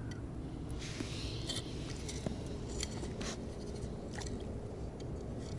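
Scattered light scrapes and clicks of fishing gear being handled, over a steady low rumble.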